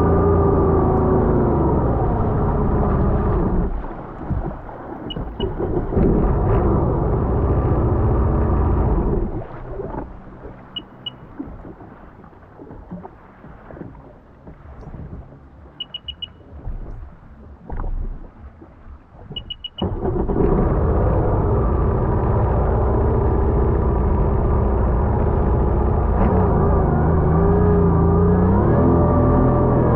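Sea-Doo jet ski engine running at speed with rushing water, dipping at about 4 s, then dropping to a low, uneven idle from about 9 s. It powers up again at about 20 s, its pitch gliding up near the end. Short high beeps sound four times during the slower stretch.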